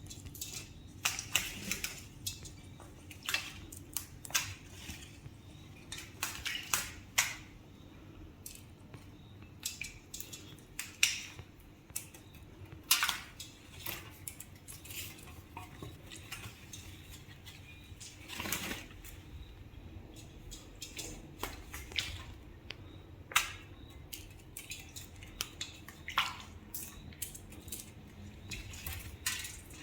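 Irregular sharp clinks and rattles of a bath dish as Indian ringneck parrots bathe in it, a few louder knocks among many lighter ones.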